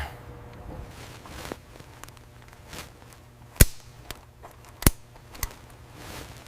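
Workshop clanks: a few sharp metallic clicks and knocks, the two loudest about three and a half and five seconds in, over a low steady machinery hum.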